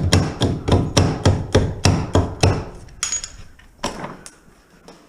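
Rapid, even hammer blows, about three a second, stopping about two and a half seconds in, followed by three scattered single knocks.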